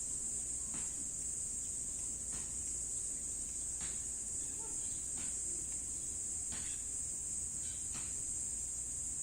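Steady, high-pitched chorus of insects, with faint soft ticks about every second and a half.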